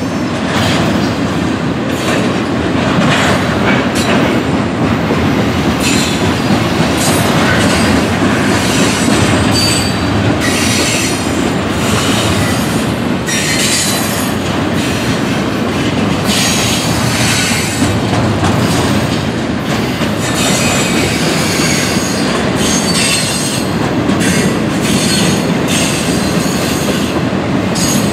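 Double-stack intermodal freight train rolling past on its well cars: a loud, steady rumble of wheels on rail with some clickety-clack, and short high wheel squeals coming and going.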